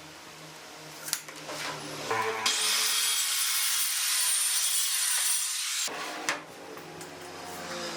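Power tool running, then cutting into wood for about four seconds with a loud, steady hiss; the cut stops abruptly and the motor runs on quietly.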